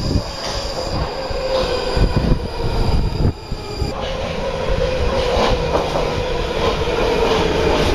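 Metro train running on its rails: continuous rumble with a steady squeal of wheels on rail, and a thin high whine over the first half that stops about four seconds in.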